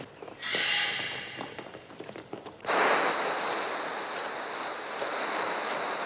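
Shrill, wavering seagull cries, the film's electronically produced bird sounds, for about two seconds. Then, suddenly, a loud steady hissing rush begins and keeps up.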